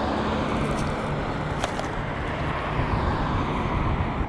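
Road traffic passing close by: a steady rush of tyre and engine noise from cars on the carriageway.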